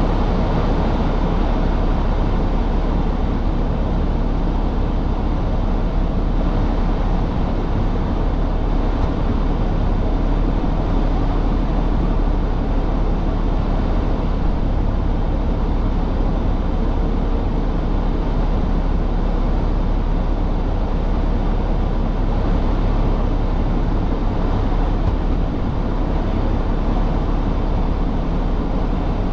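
Semi truck's engine and road noise, a steady low rumble that stays even throughout.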